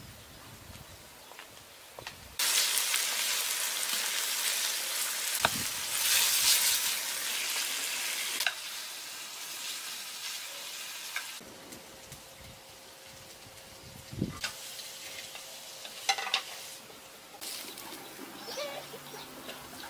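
Marinated pork frying in hot oil in a wok and stirred with chopsticks: a loud, steady sizzle that starts abruptly about two seconds in and stops abruptly about eleven seconds in. After it, a few light knocks.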